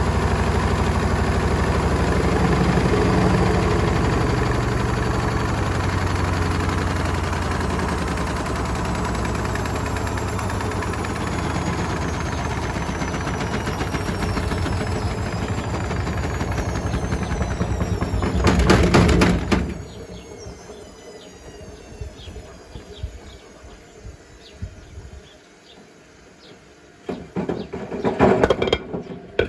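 Hotpoint WMFUG742 washing machine with bricks in the drum, its motor whine falling steadily in pitch as the drum slows from a spin. A loud clatter comes about two-thirds of the way in, then the machine goes quieter, with scattered knocks and a louder rattle near the end.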